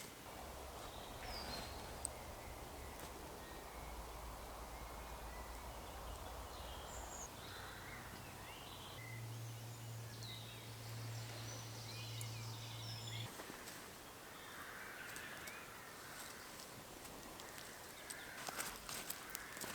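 Quiet woodland ambience with scattered faint bird calls and a low steady hum in the middle part. A few sharp clicks come near the end.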